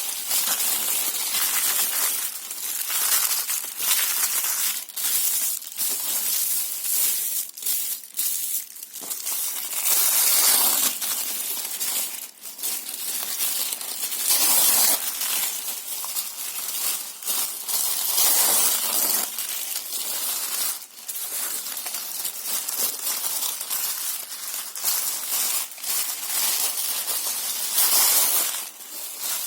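Paper and cardboard being torn and crumpled, a continuous crackle of rips and sharp snaps with louder tearing strokes every few seconds.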